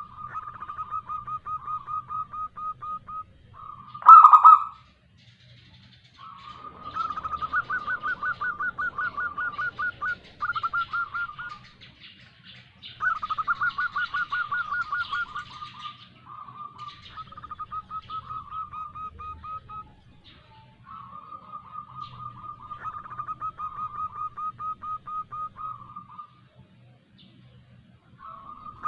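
Zebra dove (perkutut) calling: bouts of rapid, trilling coos a few seconds long, repeated with short pauses, with one louder short note about four seconds in. Billed as a female's call used as a lure to make other zebra doves answer.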